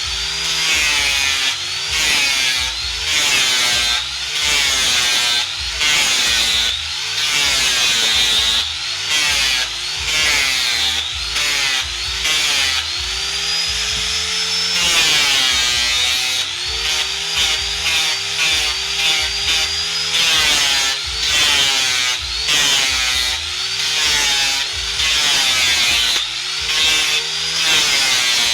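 Angle grinder shaping wood, its motor pitch dropping each time the disc bites into the wood and rising again as it eases off, over and over in short strokes.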